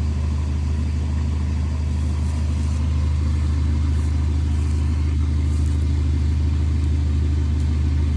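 Off-road 4x4 vehicle's engine running steadily at low revs, getting a little louder from about three seconds in.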